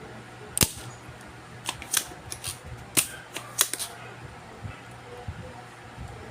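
A run of sharp clicks and snaps, about a dozen in the first four seconds, from hand tools being handled on a repair bench. A steady low hum runs underneath.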